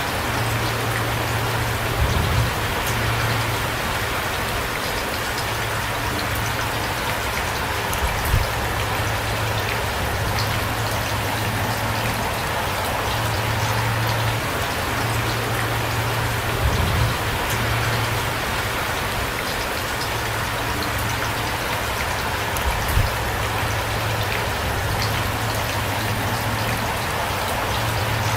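Heavy rain falling steadily, a dense even patter of drops on surfaces, with a few low thuds every several seconds.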